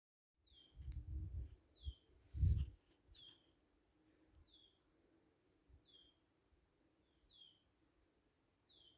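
A small songbird calling steadily in short high chirps, about one every 0.7 seconds, alternating a falling note with a level one. Low rumbling bumps come about a second in and again more loudly about two and a half seconds in.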